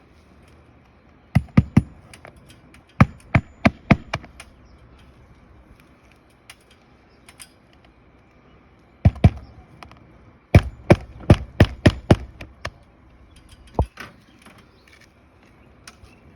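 Hammer striking roofing nails through an asphalt shingle in quick runs of blows: three, then about five, then two, then about eight, with a single blow near the end.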